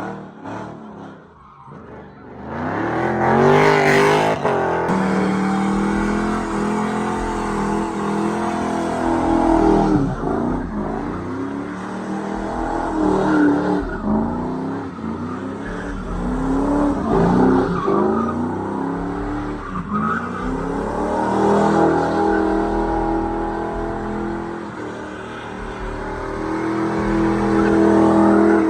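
Car engine revving up and down over and over while the tires squeal and skid.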